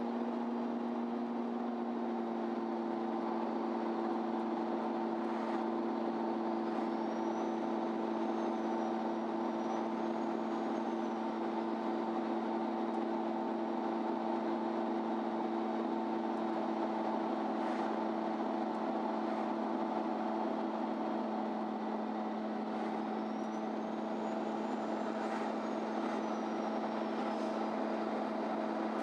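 MAN Lion's City Ü diesel bus heard from inside the passenger cabin: a steady drone of engine and running gear with a constant hum. A faint high whine rises and falls twice.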